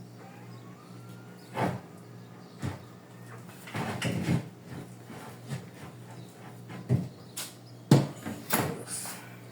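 Irregular knocks and clatter from things being handled in a refrigerator during cleaning, over a steady low hum.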